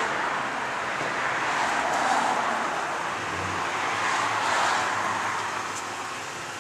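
Road traffic noise, swelling twice as vehicles go by.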